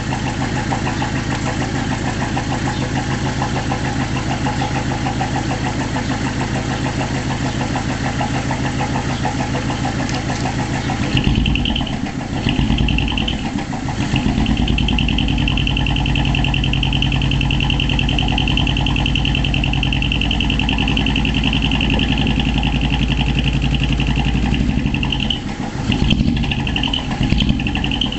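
Exhaust of a 100-series Toyota HiAce's small diesel engine, fitted with a split exhaust manifold and a one-off muffler, running steadily. About 11 seconds in the sound turns louder and heavier in the low end, and a steady high-pitched whine comes and goes over it.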